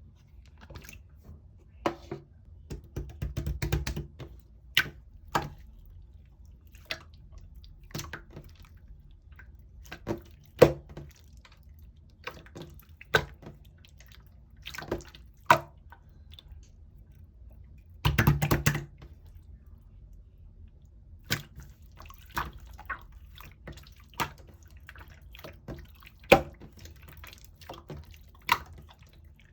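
Melted chizel-type slime squished and pressed by hand: irregular wet pops and sticky clicks, with two longer crackling squelches, one about three seconds in and another past the middle.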